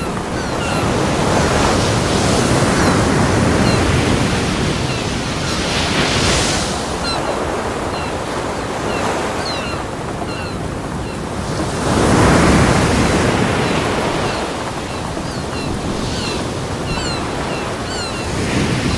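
Ocean waves breaking on a beach: a steady wash of surf that swells and ebbs, with the biggest wave crashing about twelve seconds in.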